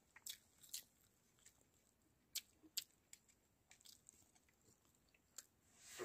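Quiet mouth clicks and smacks of someone chewing a mouthful of rice and egg curry eaten by hand: a few short, sharp clicks scattered through, with near silence between them.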